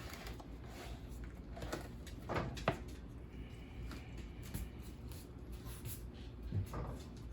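A few faint clicks and knocks, like things being handled in a kitchen, over a low steady hum, with the clearest knocks about two and a half seconds in and again near the end.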